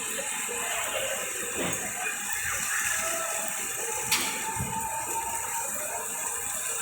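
Steady rain falling, an even hiss, with one sharp click about four seconds in.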